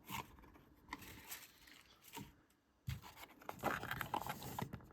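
Handling noise of pocket knives being set down and picked up: a few separate light clicks and taps, then from about three seconds in a busier run of clicking and rustling.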